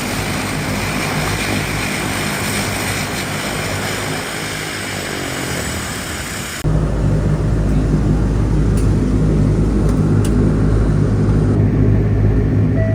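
Dash 8 turboprop's propellers and engines running, a steady loud drone with fixed tones. About six and a half seconds in it cuts abruptly to a deeper, louder rumble.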